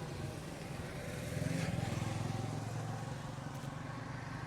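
An engine running steadily with a low hum, growing a little louder about a second and a half in, then easing off.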